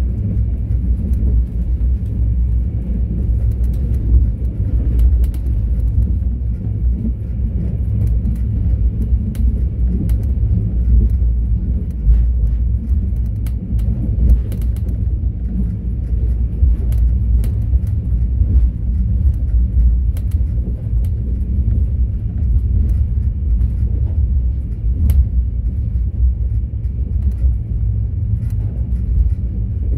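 Mugunghwa-ho passenger train running at speed: a steady low rumble of wheels on the rails, with faint scattered ticks and rattles.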